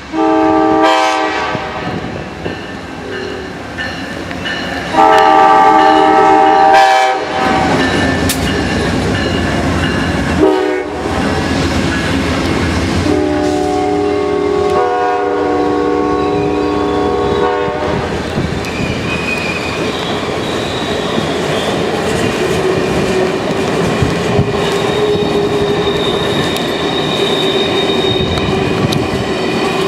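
Amtrak diesel locomotive sounding its horn in the grade-crossing pattern: two long blasts, a short one, then a long one. The train then runs by with wheels clattering over the rail joints and a faint wheel squeal.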